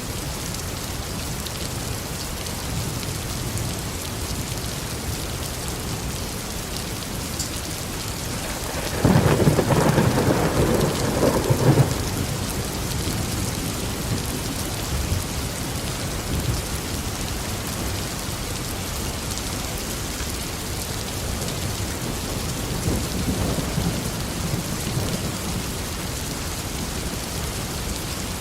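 Steady tropical rain, with a loud roll of thunder about nine seconds in that rumbles for about three seconds, and a fainter rumble later on.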